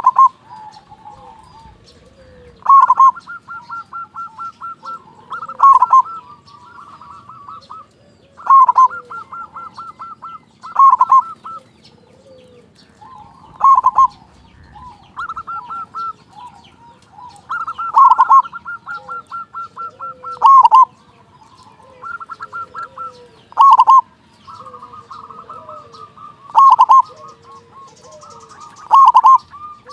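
Zebra doves (perkutut) singing, their loud cooing song phrases about every three seconds with quick runs of short, rapid coo notes between them.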